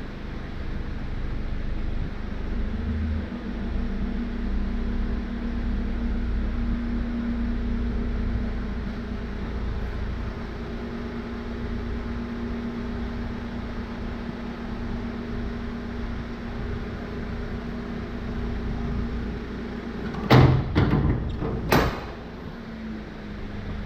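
Hyundai Porter truck's engine running steadily with a low hum, its pitch shifting slightly a few seconds in. Near the end a few sharp clunks, like a door being worked, stand out as the loudest sounds.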